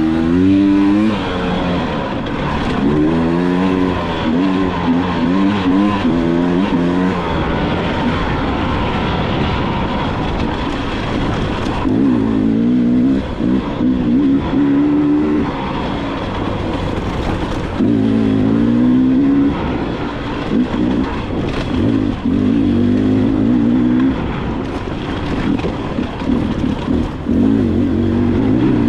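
Dirt bike engine being ridden hard, its pitch climbing and dropping again and again as it revs up and shifts through the gears, over a steady rushing noise.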